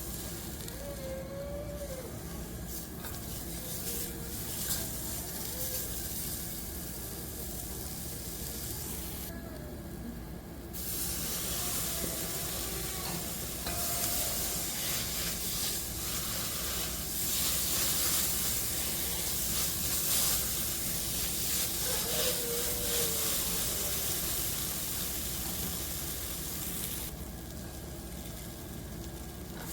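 Food frying in hot oil in a cooking pot with a steady sizzle, stirred now and then. The sizzle thins out briefly about ten seconds in and again near the end.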